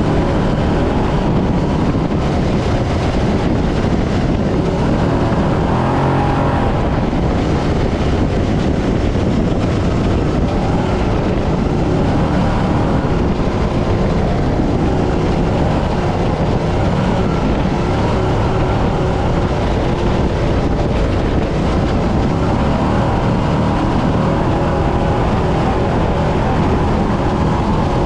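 Brenthel 6100 trophy truck driving hard over desert terrain: the engine runs steadily under a dense, even wash of chassis and terrain noise.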